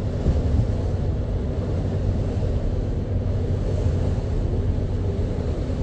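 Steady low rumble of a tour boat's engines running at cruising speed, with a constant deep hum.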